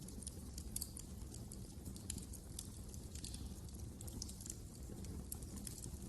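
Wood fire crackling: irregular sharp pops and snaps over a low, steady rumble of flames.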